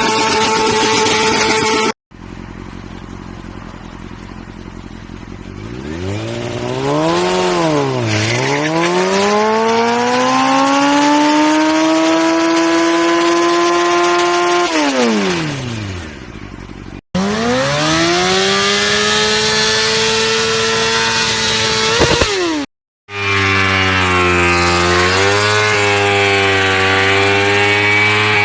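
Motorcycle engines revving in a string of separate clips. In one clip the engine is blipped, dips and climbs to a high held rev, then falls away. The next revs up and holds. The last runs steady at high revs with a brief dip.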